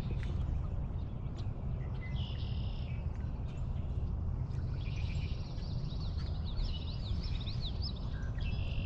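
Birds calling in short, high phrases, with a run of quick up-and-down notes about two-thirds of the way through, over a steady low rumble.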